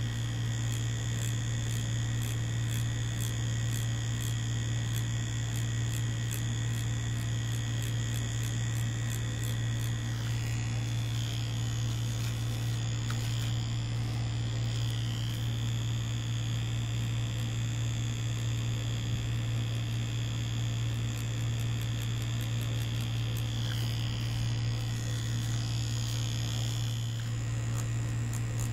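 Mummy Anubis tattoo machine running steadily with a low buzz as it drives the needle cartridge. A fainter high whine shifts a little about a third of the way in and again near the end.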